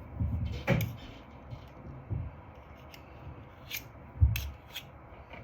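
Butter being added piece by piece to a kitchen scale: a few soft thumps and sharp clicks, the loudest thump about four seconds in.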